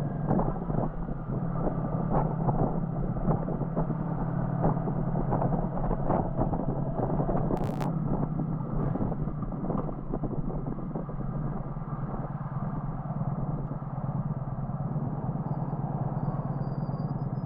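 Motorcycle engine running steadily at cruising speed, mixed with road and wind noise while riding. There is a single sharp click about eight seconds in.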